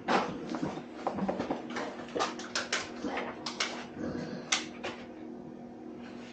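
Irregular clicks, taps and rustles of small parts and packaging being handled, over a steady low hum.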